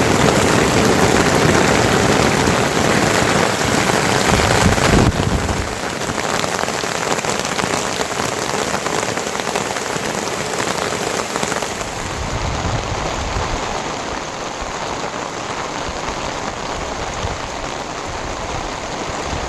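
Heavy rain falling steadily, a dense hiss of drops on surfaces. It is louder for the first five seconds, then drops abruptly and continues more softly.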